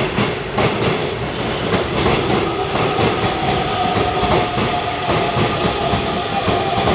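Hanshin 2000-series electric train pulling out and running away from the platform, its wheels clattering over the rail joints. A steady high tone joins about two and a half seconds in and holds to the end.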